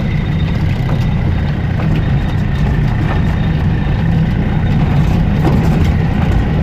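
UAZ off-roader's engine and drivetrain running steadily under way, heard from inside the cab: a deep rumble with a thin, steady high whine above it and a few light rattles.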